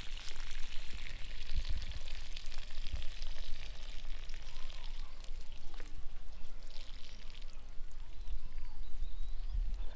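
Water pouring steadily from an irrigation pipe into a flooded rice field, an even rushing splash, with a few brief low thumps.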